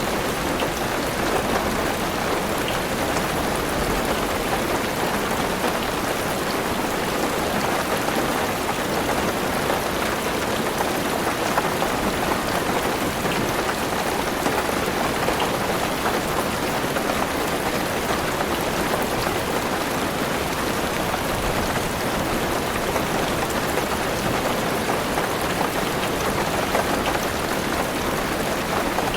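Heavy rain falling on a car's roof, heard from inside the car: a steady, dense patter with scattered individual drop ticks.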